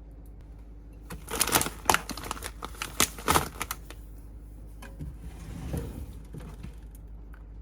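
Kitchen work noise: a quick, irregular run of sharp clicks and knocks for about two seconds, then a few softer knocks.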